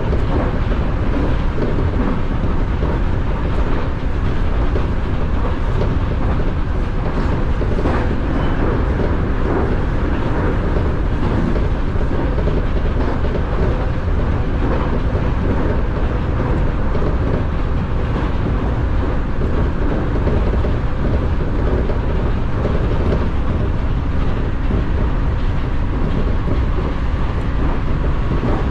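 Nankai electric commuter train running along the track, heard from inside the front car: a steady rumble of wheels on rail with occasional clicks over rail joints.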